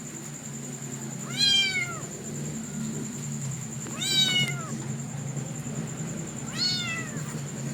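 A kitten meowing three times, a few seconds apart. Each meow is high-pitched and drops in pitch at its end.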